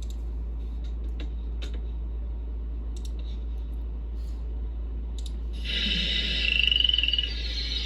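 Steady low hum of a VHS tape's audio track in a silent gap between previews, with a few faint clicks. About six seconds in, a brighter hiss with a short high whistle-like tone comes in as the next preview's audio begins.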